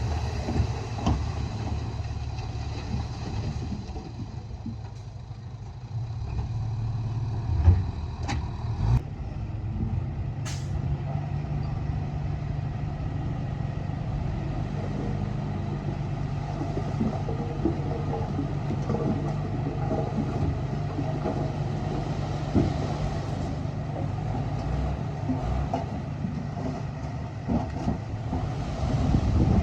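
Diesel engine of heavy earthmoving machinery running steadily at a low pitch, with a few metal clanks and a short hiss about ten seconds in.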